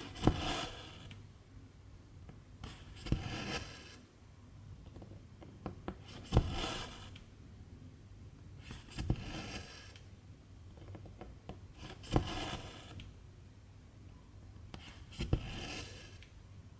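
Embroidery needle punching through 11-count cross-stitch fabric, each stitch a sharp click followed by the swish of silk thread being drawn through. Six stitches come at an even pace, about one every three seconds.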